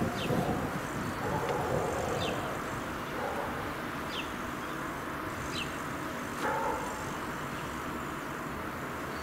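A bird giving short, high chirps that fall in pitch, one every second or two, over a steady background hiss.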